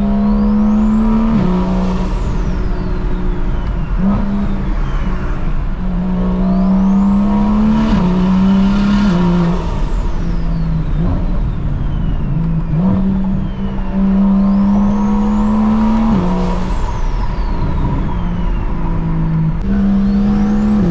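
Single-turbo BMW N54 inline-six engine in an E92 335i, pulling and easing off repeatedly. Its note climbs slowly and drops back several times, with a high turbo whistle rising and falling about every four to five seconds.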